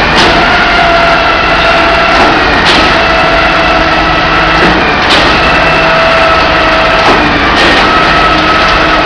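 Truck-mounted concrete pump running under load, its engine going steadily with a sharp knock about every two and a half seconds, typical of the pump's pistons changing stroke.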